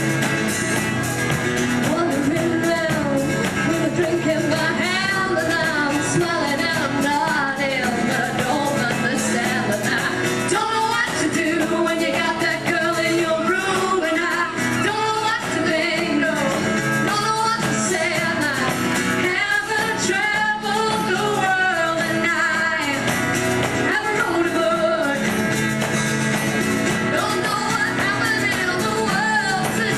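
Women singing a pop-rock song live to guitar accompaniment, the voices carrying a wavering melody over steady strummed chords.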